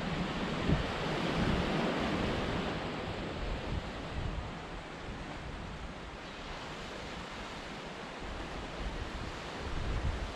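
Sea waves washing in, one swell building in the first couple of seconds and then easing off, with wind buffeting the microphone.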